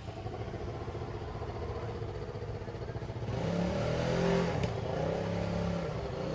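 A motor engine running steadily, growing louder about three seconds in, as if revved or coming closer.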